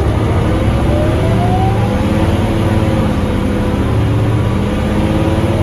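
Scania K280UB city bus, its Scania DC9 diesel engine and ZF Ecolife automatic gearbox pulling away, rising in pitch and then dropping as the gearbox shifts up, about two seconds in and again near the end.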